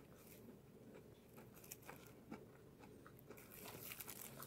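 Faint chewing and mouth sounds with a few small clicks, near silence, then a light crinkle of plastic near the end.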